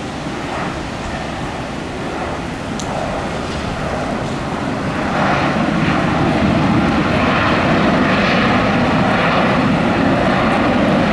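Jet airliner's engines passing close, the rumble building and loudest from about five seconds in.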